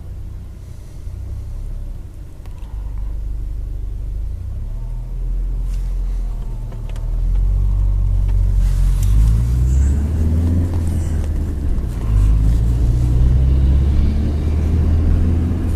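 Car engine and road rumble heard from inside a moving car, growing louder about halfway through as the engine picks up speed.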